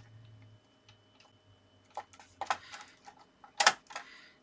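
Card stock being handled and set against a scoring board: a few light clicks and taps with some paper rustle, the sharpest tap about three and a half seconds in.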